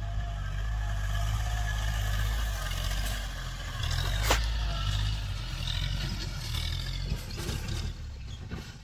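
Tractor engine running, its low rumble swelling and easing under load, with a sharp click about four seconds in; it fades near the end.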